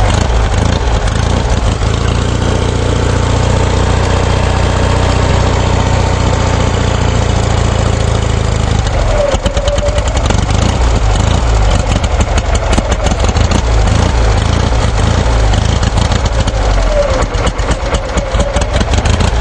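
Engine running steadily with a strong low rumble; twice its pitch sags and then picks back up, about halfway through and near the end.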